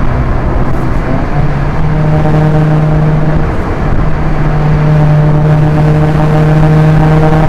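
Proton Inspira 1.8's four-cylinder MIVEC engine droning under load at high speed, with road rumble underneath. Its steady note sets in about a second and a half in, drops away briefly near the middle, then comes back and holds.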